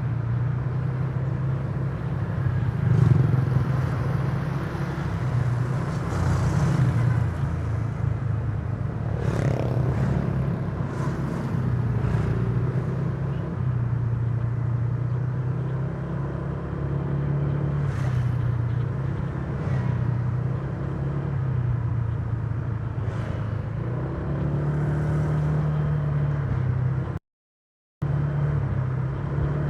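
Honda Giorno 125 scooter's single-cylinder engine running while riding, its note rising and falling with the throttle over a steady rush of road and wind noise. The sound drops out completely for under a second near the end.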